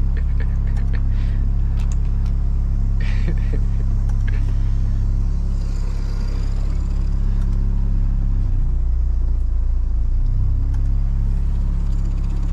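Trawler's inboard engine running steadily: a low, even rumble.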